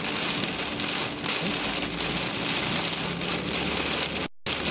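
Heavy rain beating on a vehicle: a dense, steady hiss of drops with fine ticks of individual hits. The sound cuts out completely for an instant near the end.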